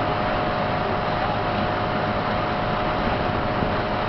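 Aquasport motorboat's engine running steadily under way, a constant drone over rushing wind and water noise.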